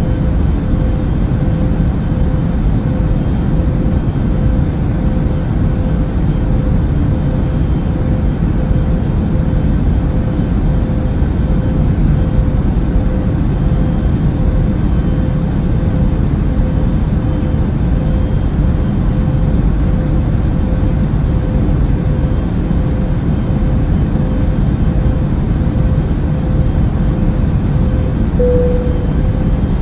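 Airbus A380 cabin noise in cruise flight: a steady, deep rushing noise with a constant hum near 500 Hz, and a brief louder note on that hum near the end.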